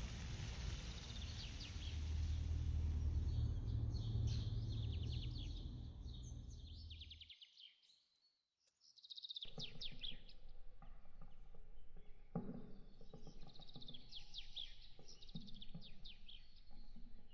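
Small birds chirping in quick repeated trills over a low steady rumble. About seven seconds in the sound cuts off for roughly two seconds of silence, then the chirping resumes over a quieter background with a few light knocks.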